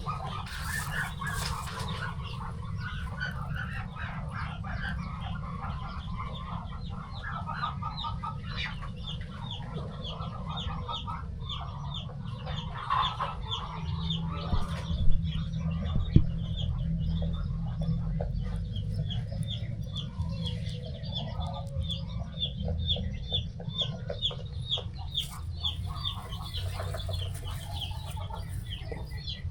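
A flock of farm poultry calling: hens clucking, with young birds keeping up a fast run of short, high peeps. A steady low rumble lies underneath, and there are a couple of sharp knocks about halfway through.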